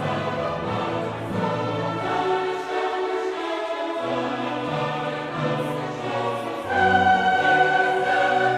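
Classical choral music: a choir singing held notes with orchestral accompaniment, swelling louder near the end.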